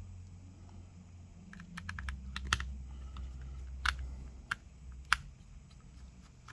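Small hand tools clicking and tapping against the small internal parts of a smartphone being dismantled: a quick run of light clicks, then three single sharper clicks spaced about half a second apart.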